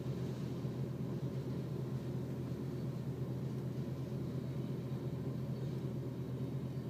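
Freight train of boxcars rolling past a level crossing, heard from inside a car as a steady low rumble.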